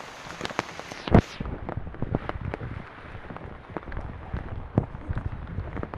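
Rain hissing, then a single loud knock about a second in, after which the hiss thins out and irregular sharp ticks and knocks of drips and steps continue.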